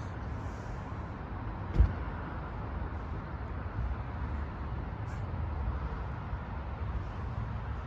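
Steady low rumble of road vehicles at a level crossing, with one short knock about two seconds in.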